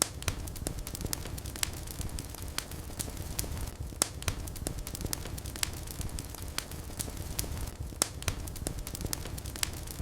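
Wood fire in a fireplace burning with a low rumble and frequent irregular crackles and pops, a few sharper pops standing out about four and eight seconds in.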